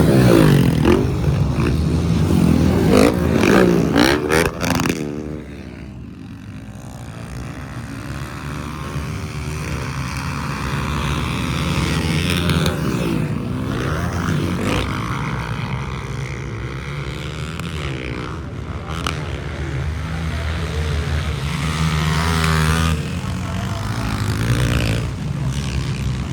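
Motocross motorcycle engines running and revving, the pitch rising and falling with the throttle. Loudest in the first five seconds, then quieter and steadier.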